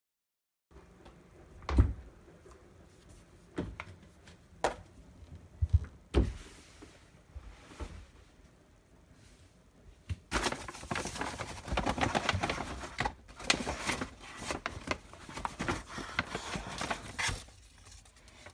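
Household things being handled and moved about: scattered knocks and thumps, then from about ten seconds in several seconds of dense rustling and clattering, as of someone rummaging through stored items.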